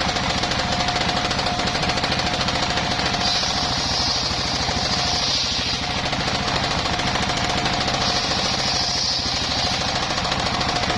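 Engine-driven circular saw running steadily, its engine firing in rapid pulses under a steady whine. A higher, hissing cutting sound swells in twice, about three seconds in and again about eight seconds in, as the blade cuts through bayur timber.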